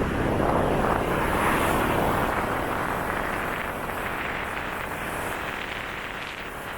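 Motorcycle on the move: a steady rush of wind and road noise, loudest at first and slowly easing off.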